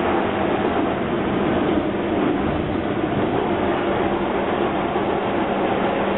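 Docklands Light Railway train running along the track, heard from inside the carriage: steady wheel and running noise with a constant low hum.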